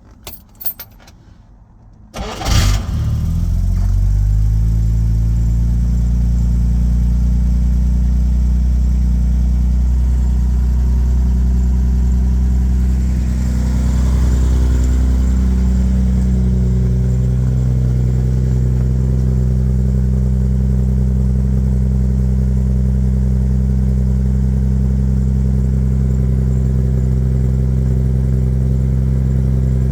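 1967 Jaguar E-Type's 4.2-litre straight-six engine cold-starting: a few faint clicks, then it cranks and catches about two seconds in and settles into a steady idle. The idle shifts slightly in pitch around the middle, then runs on evenly.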